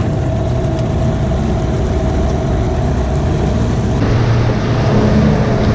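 Outboard motor running steadily with the boat under way, a low engine hum mixed with hull and water noise. About four seconds in the engine note shifts and gets a little louder.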